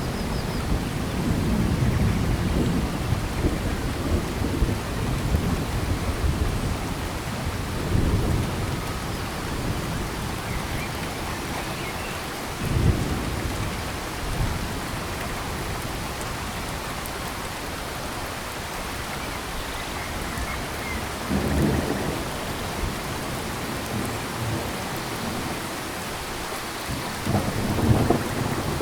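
Steady rain falling in a tropical forest, with low rumbles swelling and fading several times, loudest near the end.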